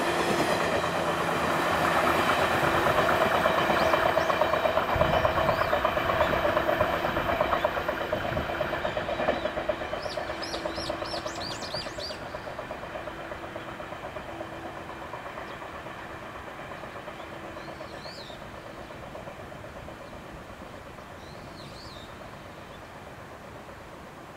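JNR 115 series three-car electric train running past and away, its wheels clicking rhythmically over the rail joints under a steady hum, fading gradually into the distance. Small birds chirp in short bursts several times as the train dies away.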